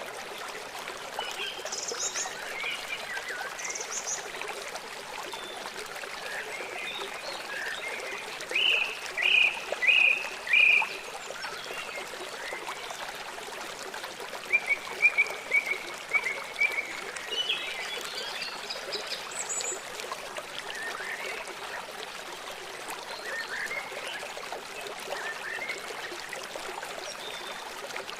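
Small songbirds chirping and calling in short notes and quick trills, with a loud run of four chirps about a third of the way in and another fast series soon after, over a steady background hiss.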